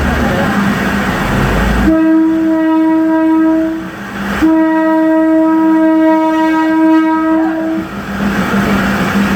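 Train horn sounding two long steady blasts, the first about two seconds long and the second about three and a half, over the noisy rumble of the train running along the line.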